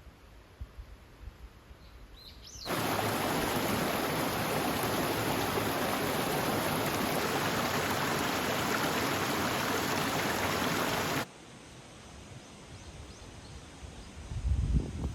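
Steady rushing water noise, like heavy rain or a stream, that starts abruptly about three seconds in and cuts off abruptly about eight seconds later.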